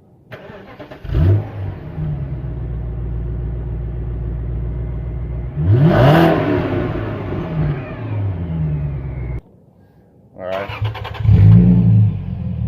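Car engine starting and idling with a deep exhaust rumble, blipped once just after starting and revved hard about six seconds in, then a few smaller revs. The sound cuts off suddenly about nine seconds in, and an engine is started and revved again near the end.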